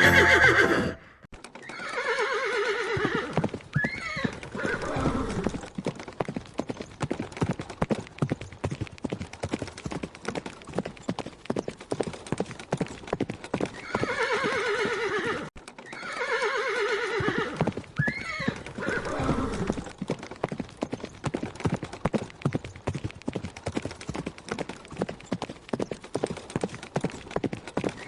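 A horse whinnies, a long call falling in pitch, followed by hooves clip-clopping in a fast, steady beat. The whinny and hoofbeats start over about halfway through.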